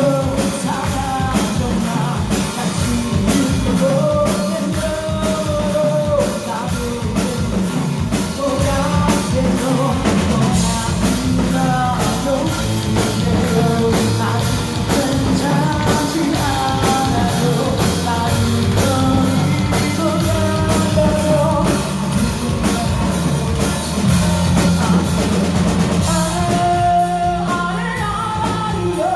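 A rock song with a singer, drum kit and guitar playing. About three seconds before the end, the drums drop back and a held note carries on.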